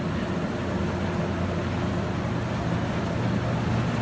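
A steady low mechanical rumble with a humming tone, growing slightly louder near the end.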